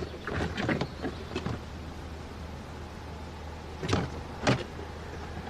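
Someone rummaging through things: scattered light clicks and knocks, then two sharper knocks about half a second apart, over a steady low hum.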